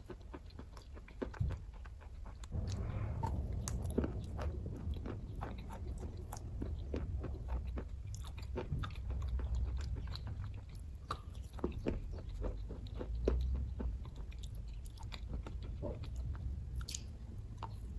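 A person chewing kaju katli (cashew fudge) close to the microphone: many short wet mouth clicks and smacks over a low rumble.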